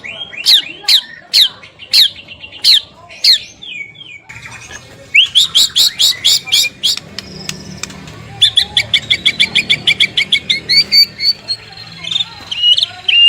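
White-rumped shama singing: a string of sharp down-slurred whistled notes about two a second, a brief pause, then fast runs of repeated chips and trills about six notes a second.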